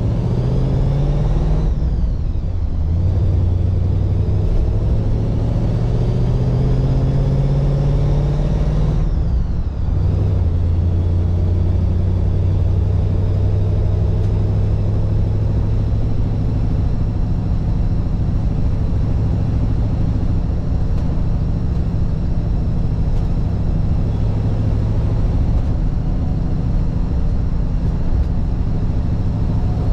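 1948 Mercury station wagon's 239-cubic-inch flathead V8 pulling through the gears of its three-speed: the engine note climbs, breaks off for a shift about two seconds in, climbs again, breaks for another shift about nine seconds in, then settles into a steady cruise.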